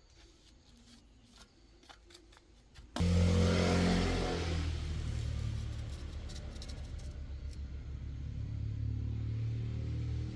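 A heavy-duty truck's diesel engine starting about three seconds in, after a few faint clicks, then settling into a steady idle.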